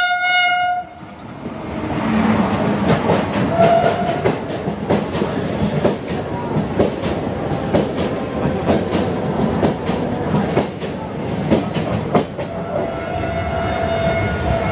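A WAP-5 electric locomotive's horn ends within the first second, then the Talgo train's coaches pass close by with a steady rumble and irregular clicking of wheels over rail joints. A faint steady tone sounds near the end.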